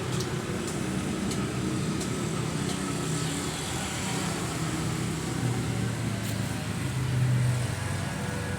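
Ford tractor engine running steadily, its pitch shifting a little, with a brief swell in level near the end.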